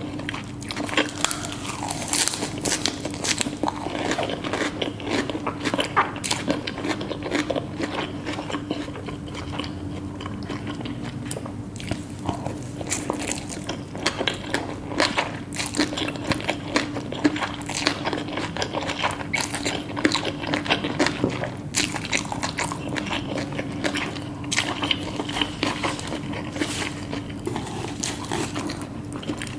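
Close-miked eating: crunchy bites and chewing of Korean BBQ lettuce wraps, japchae and pork kimbap, with frequent short crunches and crackles at an uneven pace over a steady low hum.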